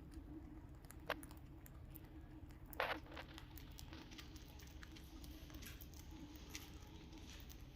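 Parrots feeding: faint scattered clicks and crunches, with two sharper ticks, one about a second in and one near three seconds.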